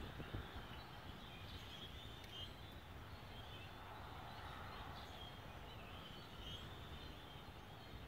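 Faint bird calls, short high chirps about once a second, over a steady low rumble.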